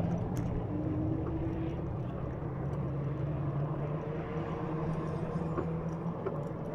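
E-bike hub motor humming under load while climbing, a low steady tone that drifts slightly in pitch, over wind rushing on the microphone.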